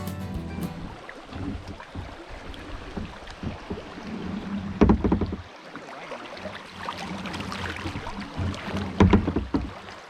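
Kayak paddling on a river: water splashing and lapping against the kayak and paddle, with two louder surges of splashing, one around the middle and one near the end.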